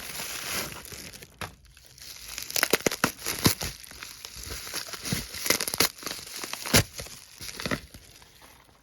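Packaging being handled: crinkling and rustling with many sharp snaps and clicks, busiest in the middle and dying down near the end.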